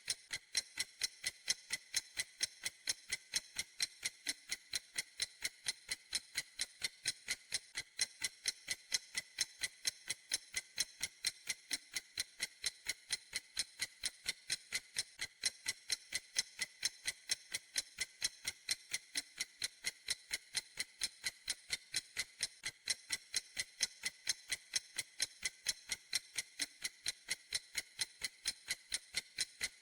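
A clock ticking steadily: sharp, evenly spaced ticks, several a second, with a bright, high-pitched click.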